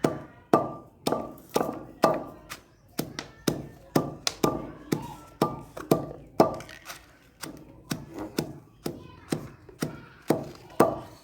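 Whole dried red chillies being pounded in a dori danda, a mortar and pestle: steady pestle strikes about twice a second, each with a short ringing tone.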